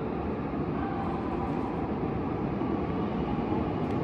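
H5 series Shinkansen train approaching the platform: a steady low rumble, growing slowly louder.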